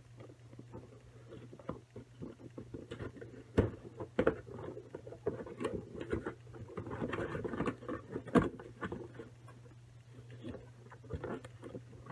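Toy packaging being handled: irregular rustling and crinkling with a few sharp knocks.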